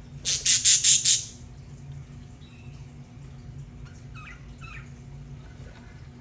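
Budgerigar giving a loud, harsh squawk of about five quick pulses, then a few faint warbling chirps a few seconds later.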